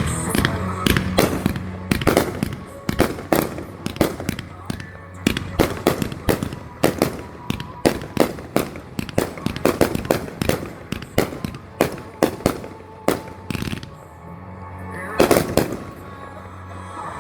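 Rapid firework reports, about three bangs a second, for most of the stretch; they thin out near the end, then a louder burst comes about fifteen seconds in. Music plays underneath.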